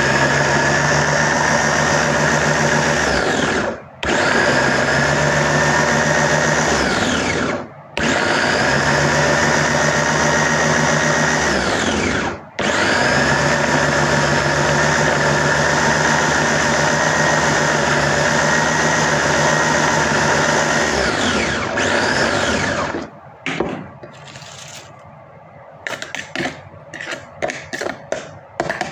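Electric blender chopping garlic, onion and ginger with a little olive oil, run in four bursts: the motor runs steadily for a few seconds, winds down with a falling whine, and starts again. About 23 seconds in, the last run spins down, followed by light clicks and knocks of handling.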